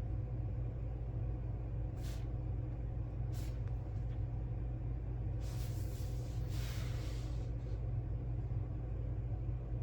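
Steady low background hum with no speech. Over it come a few short soft hisses, about two and three and a half seconds in, and a longer one from about five and a half to seven and a half seconds.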